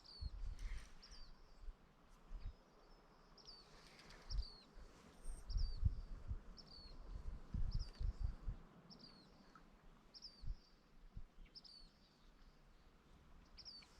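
A small bird repeating a short, high chirp about once a second, over intermittent low thumps and rumbles.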